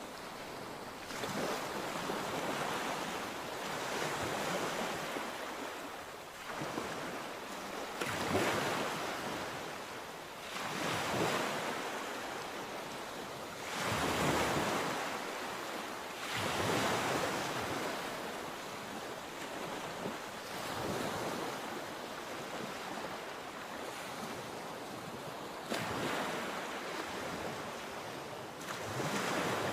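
Sea waves breaking and washing in, surging every two to three seconds as each wave comes in, with some wind on the microphone.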